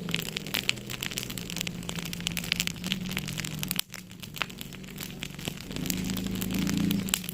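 Wood fire crackling in a fireplace: dense, irregular pops and snaps over a low steady hum that swells near the end. The sound dips out briefly about four seconds in.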